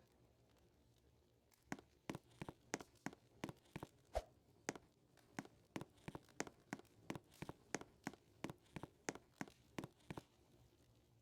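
Footsteps in an even series, about three a second, starting about one and a half seconds in and stopping shortly before the end.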